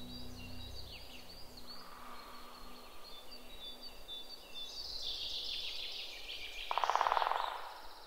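Small birds chirping and singing, with many short, high calls repeating. About seven seconds in comes a loud, rapid rattle lasting under a second.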